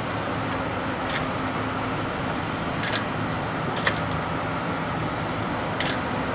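A boat engine droning steadily under a constant hiss, with a few faint light clicks.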